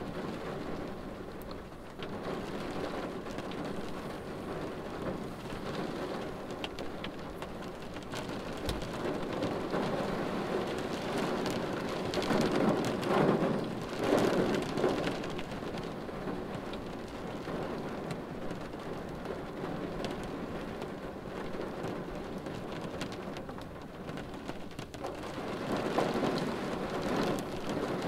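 Steady rain drumming on a car's windshield, heard from inside the car. The rain swells louder twice, about halfway through and again near the end.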